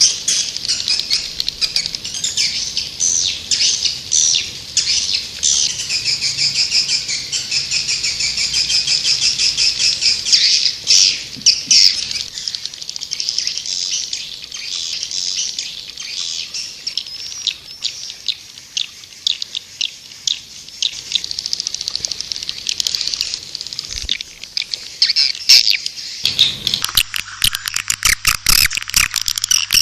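White-nest swiftlets twittering in a dense, continuous chorus of fast high chirps and trills: a swiftlet call recording of the kind played to lure the birds into a nesting house. About two-thirds of the way through, the sound changes to a denser, clickier chatter over a steady low hum.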